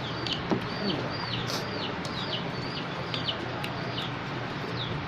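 Chickens: a steady run of short, high, falling peeps, two or three a second, with a few low clucks near the start.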